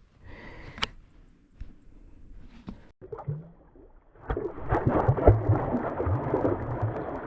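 Water sloshing and splashing at the side of the kayak, growing louder about four seconds in, as a bass is let go back into the lake.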